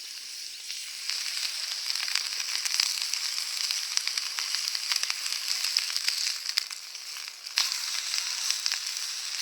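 Bacon frying in a pan over a campfire: a steady sizzle with small crackling pops. The sizzle dips briefly, then comes back louder about three-quarters of the way through.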